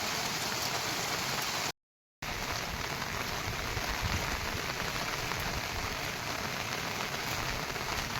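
Heavy monsoon rain pouring down in a steady, dense hiss. The sound cuts out completely for about half a second near two seconds in, then the rain carries on.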